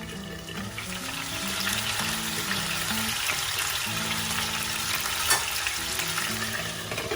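Chicken pieces shallow-frying in hot oil in a pan: a steady sizzle that swells about a second in, with a single knock partway through.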